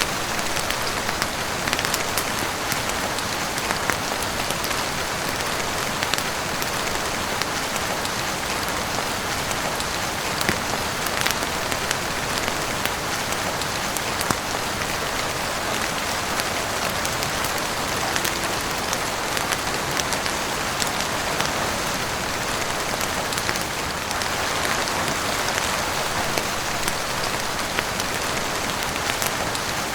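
Heavy rain falling steadily on a roof, a continuous even hiss dotted with many short sharp ticks and pops.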